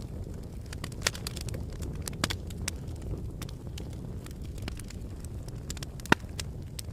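Wood fire burning in a fireplace: a steady low rumble of the flames with irregular sharp crackles and pops, one louder pop about six seconds in.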